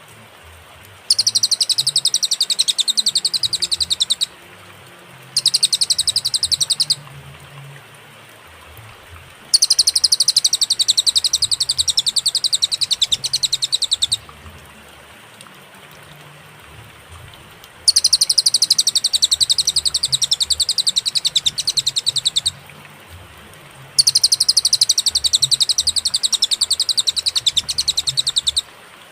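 Cililin songbird singing a fast, high trill in five bouts of one to five seconds each, separated by clear pauses.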